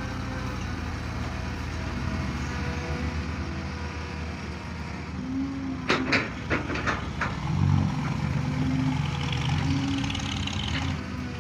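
Excavator diesel engine running steadily, with a quick series of sharp knocks about six seconds in. The engine then grows louder for a few seconds as it works under load.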